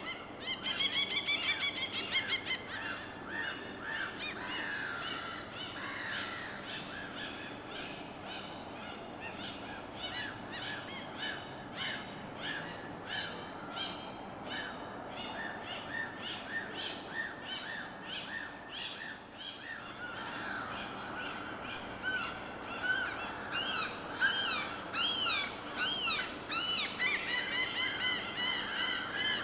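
A chorus of many birds calling and chirping at once, short repeated notes overlapping over a steady low background wash. The calls grow louder and busier about a second in and again in the last several seconds.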